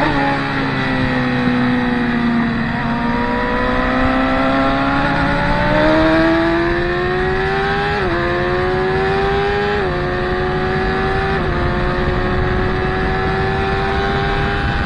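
Sport motorcycle engine at track pace. Its note falls as the bike slows for a corner, then rises as it accelerates out, with sharp dips in pitch at each upshift, about every couple of seconds in the second half.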